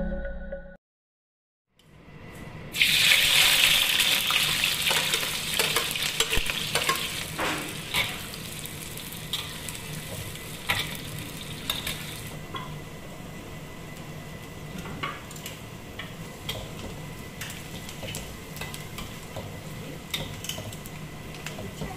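Sliced onions, peppers and chilli sauce sizzling in a wok as a metal ladle stirs and scrapes them, with frequent clinks of the ladle against the wok. The sizzling starts loud about three seconds in and settles lower after about twelve seconds.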